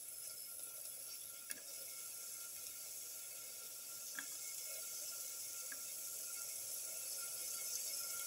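Cut garlic cloves sizzling in hot oil in a pan: a steady faint hiss, growing slightly louder, with a few small pops.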